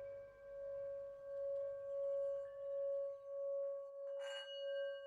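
A sustained ringing tone like a singing bowl, wavering in slow pulses under a second apart, with a short bright strike about four seconds in that adds a higher ringing overtone.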